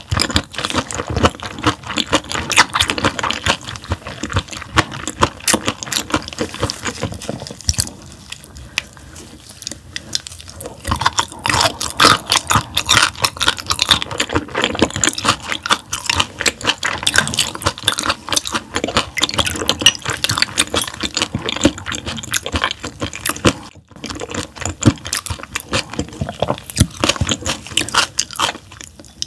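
Close-miked chewing of raw gizzard shad: dense, wet, irregular clicking mouth sounds, easing off for a few seconds about a third of the way in.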